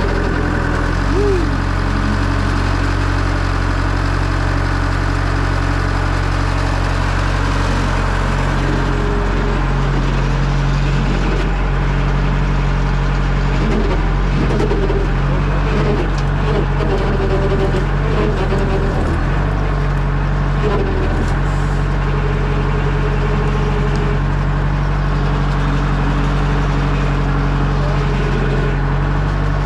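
The diesel engine of a 1967 JCB 3C Mk 2 backhoe loader running steadily. Its note shifts and wavers for several seconds in the middle as it takes load, during a test of the hydraulics.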